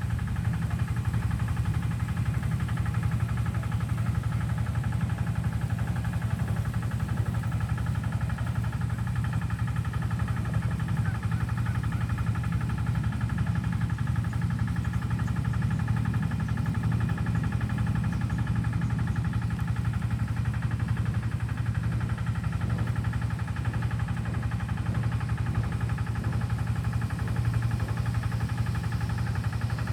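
An engine running steadily at a constant low speed, an even hum with no change in pitch or level.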